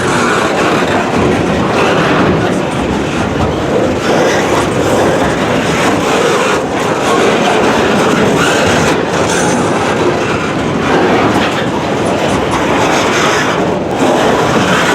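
Freight cars of a short train rolling past, their wheels running over the rails with a steady, loud rumble.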